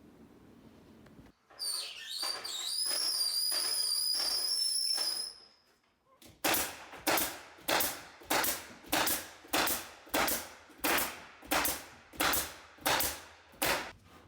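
Work on a metal ceiling: a high whine that wavers in pitch for about four seconds, then, after a short pause, a steady run of about a dozen sharp clanging hammer strikes, nearly two a second.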